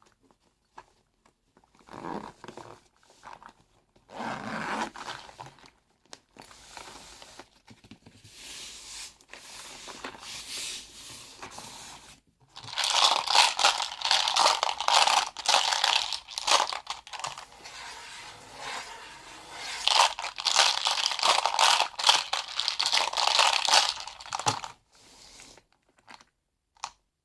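Close-up ASMR crinkling and crunching, with materials crumpled and torn by hand, in irregular bursts. The sound is light at first, then two louder, denser stretches in the second half, and it stops shortly before the end.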